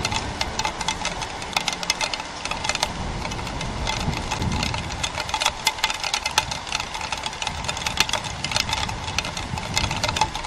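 Heavy rain falling on a nest webcam: a dense, irregular patter of drops striking close to the microphone over a steady hiss.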